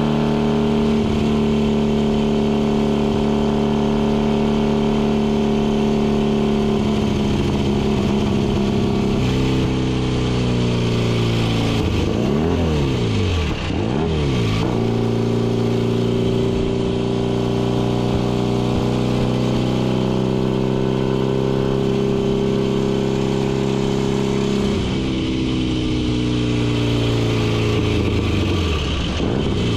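Vintage racing motorcycle engine running hard at speed. Its pitch holds steady on the straights and steps down and back up through gear changes, with a quick run of rises and falls about twelve to fifteen seconds in as the bike slows and downshifts into a corner before pulling out again.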